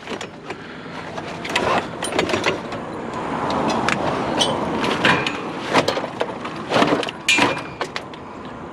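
A car passing on the street, its road noise swelling and fading over a few seconds. Several sharp knocks and rattles sound close by through it.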